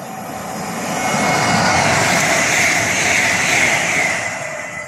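A train passing through the station on the East Coast Main Line: a loud rush of wheels and air that builds over the first second and a half, holds, then fades near the end, with a faint steady whine on top.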